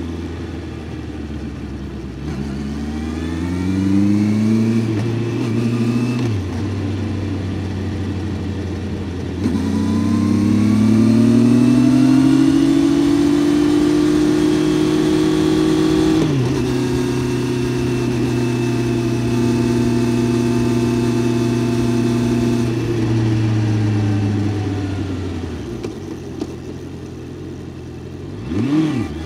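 Honda CBR650F's inline-four engine under way: the revs climb and drop sharply at an upshift about six seconds in, then climb again and drop at a second upshift about sixteen seconds in. The engine holds steady revs for several seconds, then the revs fall away as the bike slows, with one quick rev blip near the end.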